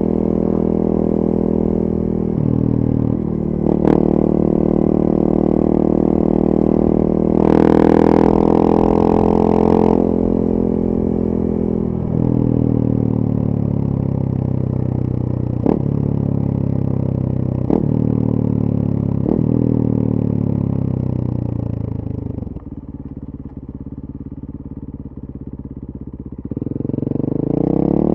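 2014 KTM 450 EXC supermoto's single-cylinder four-stroke engine with a full FMF 4.1 exhaust, being ridden: revs rise and fall through the gears, with a few sharp cracks as the revs drop, then it settles to a low, quieter run for a few seconds before revving up again near the end.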